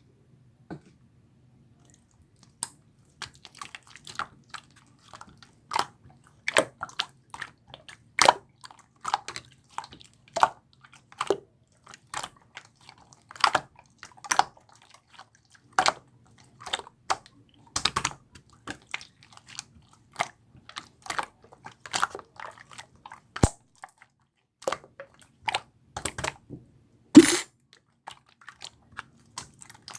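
Tough, chewy slime being pressed and kneaded by hand, making a run of irregular sticky clicks and pops that starts a couple of seconds in, with one louder pop near the end.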